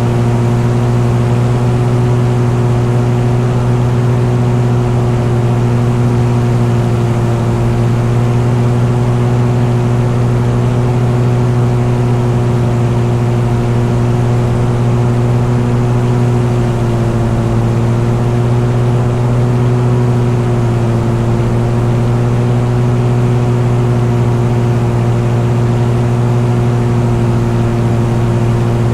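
Engine running steadily at a constant cruising speed under load. Its pitch sags slightly for a few seconds about two-thirds of the way through, then recovers.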